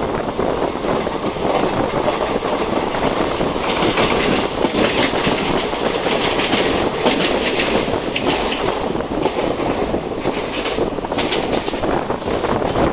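Passenger express train running along the track, heard from on board: a steady rumble of coach wheels on the rails. A harsher, higher rattle joins it from about three and a half seconds in and fades near the end.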